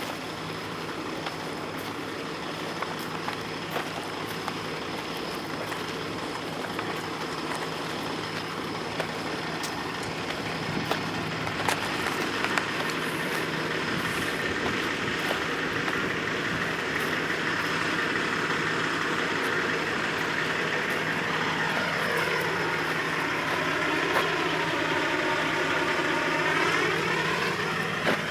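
A truck running, slowly growing louder as it approaches and then sweeping past close by near the end.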